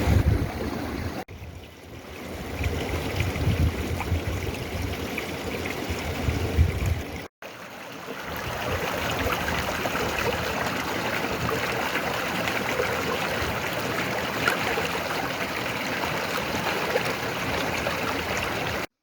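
Mountain stream flowing over rocks, a steady rush of water. Low rumble of wind on the microphone mixes in over the first part. The sound breaks off sharply about a second in and again around seven seconds, then cuts off at the end.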